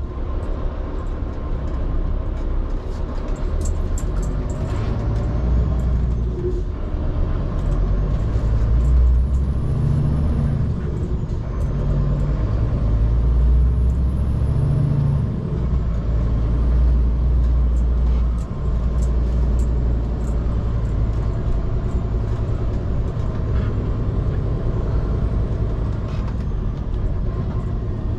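Scania P360 skip lorry's diesel engine running under load as the truck drives, a deep continuous rumble that swells and eases, with a brief drop about eighteen seconds in.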